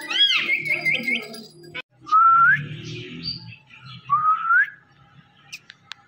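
Indian ringneck parrot calling: a short arched squawk and a quick run of chirps, then two clean rising whistles about two seconds apart.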